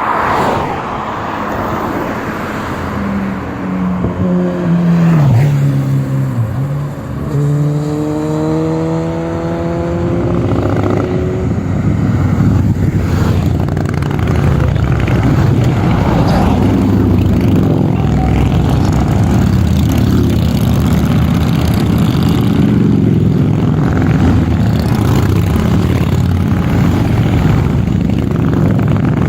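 Motorcycle engines running. Their pitch rises and falls as they rev between about four and eleven seconds, then several engines run steadily together.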